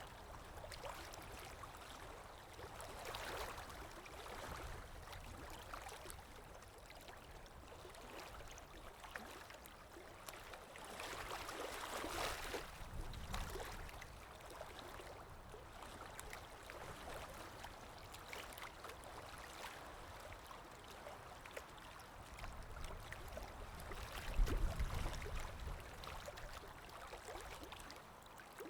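Underwater water ambience: a steady, muffled wash of moving water. It swells about three seconds in and again around twelve seconds, with a deeper surge, the loudest moment, about twenty-five seconds in.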